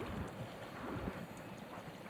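Gusty wind on the microphone, with small waves slapping irregularly at the water's edge in soft low knocks.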